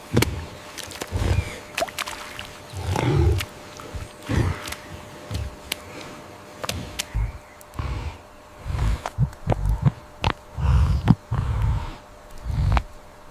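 A large animal's short, low grunts come at irregular intervals, with sharp clicks and knocks between them.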